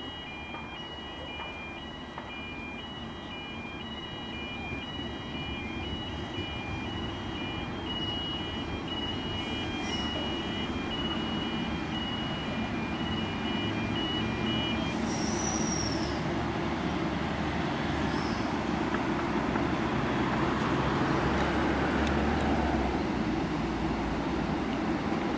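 A passenger train approaching along the track, its low rumble growing steadily louder. An electronic warning beeping in a repeating pattern of several tones sounds through the first half and stops about fifteen seconds in, with a few short high chirps later on.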